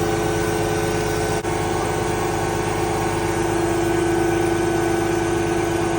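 Sany concrete pump truck running steadily, a steady whine over a low engine rumble and hiss, with its water pump running under pressure.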